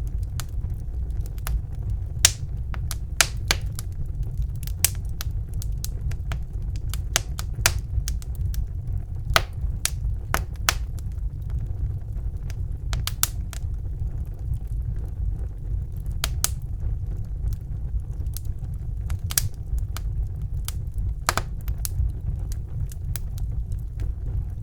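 Wood fire crackling: burning logs giving irregular sharp pops and snaps, several clustered together now and then, over a steady low rumble of the flames.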